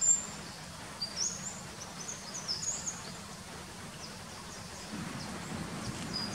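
Birds chirping: a scattering of short, high-pitched calls gliding up and down, over a steady outdoor hiss.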